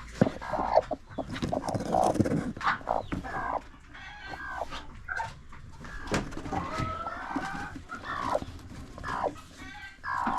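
Chickens clucking and calling, many short separate calls overlapping, with scattered sharp clicks.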